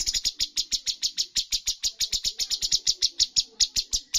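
Cucak cungkok bird singing a fast, unbroken series of sharp, high repeated notes, about nine a second.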